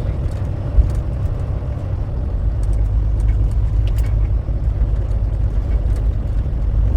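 Steady low rumble of a semi-truck on the road, growing slightly louder near the end.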